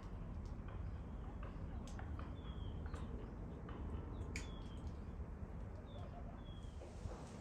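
Small garden birds chirping: short, slightly falling chirps every second or so, with a couple of sharp clicks, over a steady low rumble.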